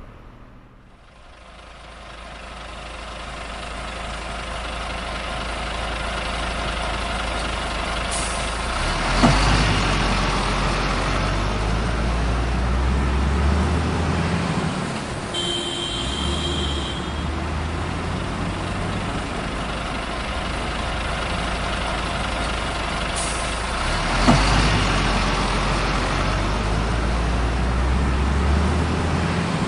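Heavy truck engine running with a strong low rumble that rises and falls, with a sharp knock about nine seconds in and again near the end, and a short high beep midway.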